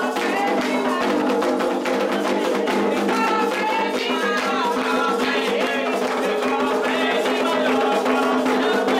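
Candomblé ritual music: atabaque hand drums keep a steady driving rhythm with shaken rattles, while voices sing a melody over them.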